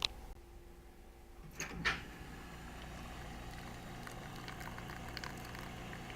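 Futurmat two-group lever espresso machine working: a click, a short hiss about two seconds in, then a steady low hum with faint irregular ticks.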